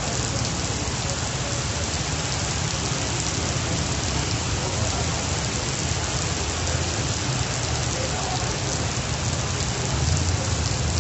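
Heavy rain falling on brick paving and a wet road, a steady, unbroken hiss.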